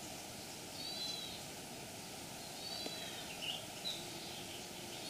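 Birds calling faintly over a steady hiss: a short arched call repeats about every two seconds, with a few softer chirps in between.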